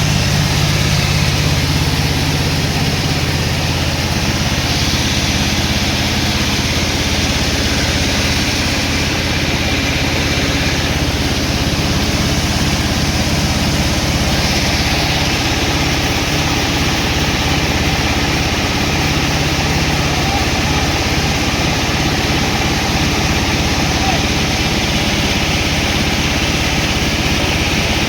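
Sawmill machinery running with a steady engine drone.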